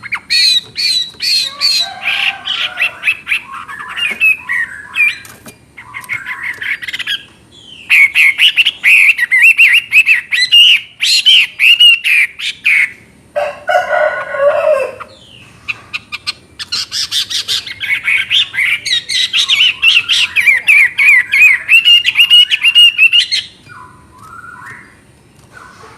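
Chinese hwamei singing: long bursts of loud, rapid, varied whistled phrases, with a lower, harsher call about halfway through.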